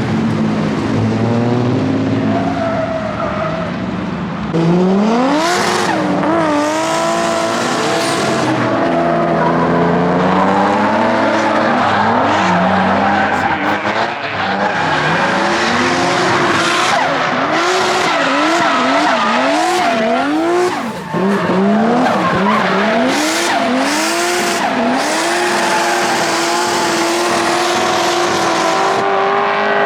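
Drift cars running in tandem, engines revving hard and dropping back again and again with overlapping rises and falls in pitch, while their tyres screech through the slides.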